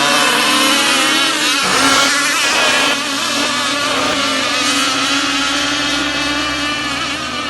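Radio-controlled racing powerboats' small two-stroke petrol engines running at high revs together, their whine wavering up and down in pitch as the boats race; a little quieter from about three seconds in.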